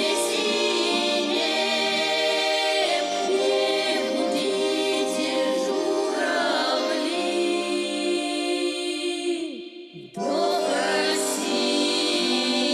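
Russian folk ensemble singing in harmony over sustained accompaniment. About ten seconds in, the music drops away for a moment and then starts again.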